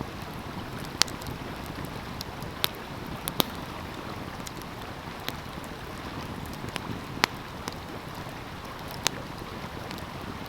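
Wood fire crackling, with a handful of sharp, irregular pops (the loudest about a second in and about seven seconds in), over the steady rush of a flowing stream.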